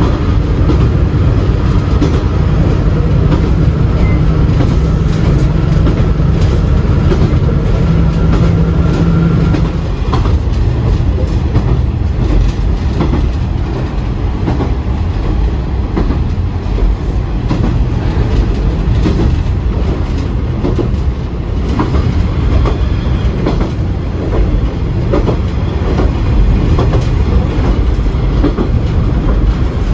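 Train running along the rails, a steady rumble with clicks of the wheels over rail joints. A steady hum under the rumble stops about ten seconds in.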